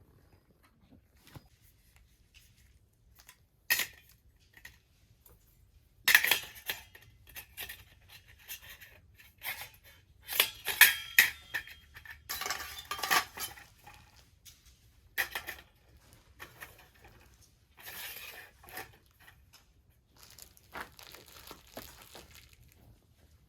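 Light metal clinking and scraping in irregular short bursts, the sound of a small compact secondary-combustion wood stove's metal parts being handled, with some rustling in between.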